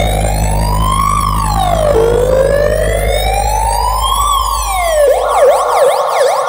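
Siren sound effect played loud through a DJ sound system during a speaker check: two slow wails rising and falling, then a fast yelp about five seconds in, over a deep steady bass drone that fades out near the end.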